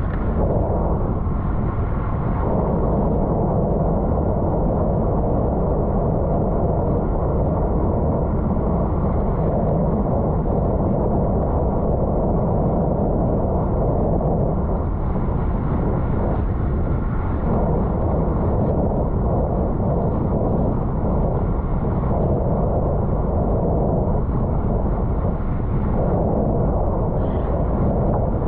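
Steady wind noise rushing over the microphone of a bike-mounted camera as a road bike races at speed.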